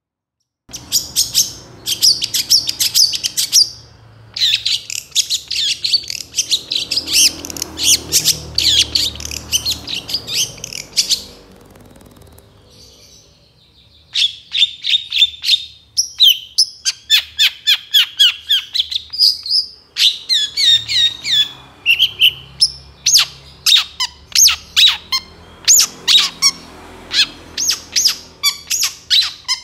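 Long-tailed shrike (cendet) singing loudly in dense runs of rapid, repeated chattering notes, the 'full isian' song of mimicked fill-ins. It starts just under a second in and pauses for a few seconds near the middle.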